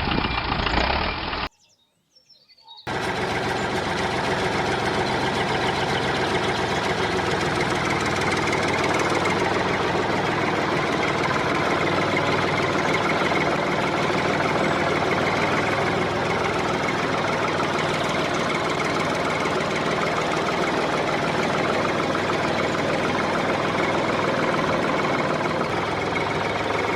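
A small engine running steadily with a fast, even rattle, starting after a brief gap of silence about two or three seconds in.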